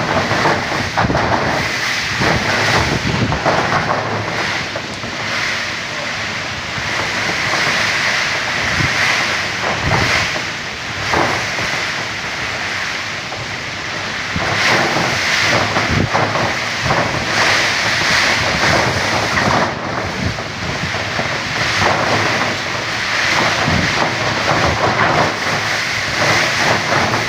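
Heavy rain with strong gusting wind in a storm, the wind buffeting the microphone in surges.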